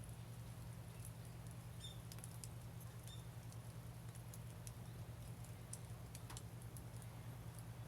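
Wood fire crackling softly, with sparse small pops and ticks at irregular intervals, over a steady low hum.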